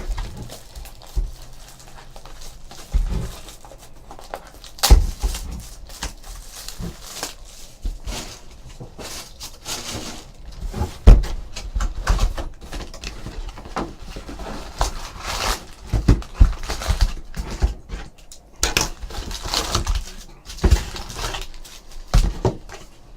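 A sealed trading-card box and its packs being opened and handled: rustling of wrapper and cardboard, with several sharp knocks on the table, the loudest about eleven seconds in.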